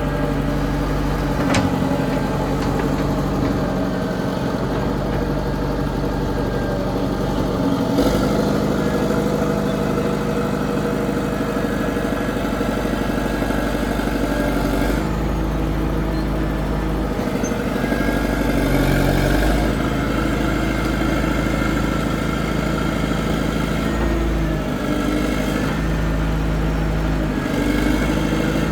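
Track loader engine running, its pitch and load shifting as the machine works, with a couple of sharp knocks near the start.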